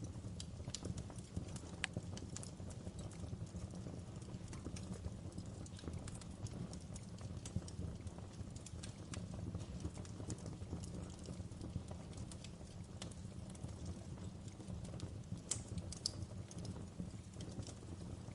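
Campfire burning: wood crackling with irregular sharp pops, a few louder ones standing out, over a low steady rumble.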